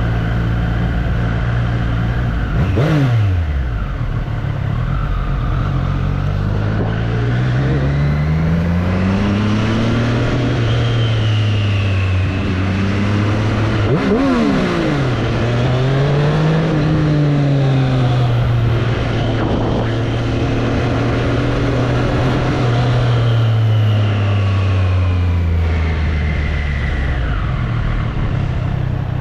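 2024 Triumph Street Triple's 765 cc inline-three engine running. It idles at first and gives a quick blip of the throttle, then pulls away, rising in pitch as it accelerates. After a sharp change in revs midway it holds a steady cruise, and near the end it rolls off back down to idle.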